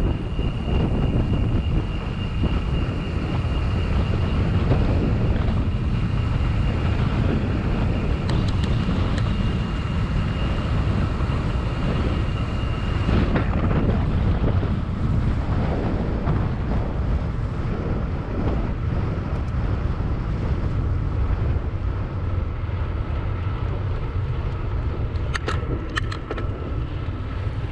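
Wind buffeting the microphone and road noise while riding a bicycle, a steady rumble throughout, with a faint high steady whine in the first half that stops about halfway through.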